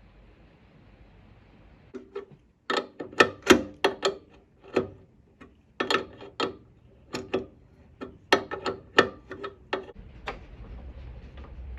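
Hand tools and engine parts knocking and clicking during the teardown of a Porsche 912 engine: an irregular run of sharp knocks, some in quick clusters, starting about two seconds in and stopping near the end.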